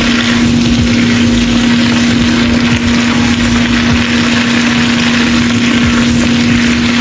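Cabbage stir-frying in a hot wok: a steady sizzle with a wooden spatula tossing and scraping the leaves. Under it runs a loud, steady machine hum.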